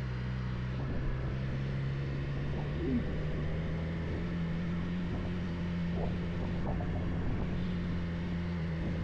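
Vehicle engine running steadily under load on a steep climb, its note rising about three seconds in and then holding.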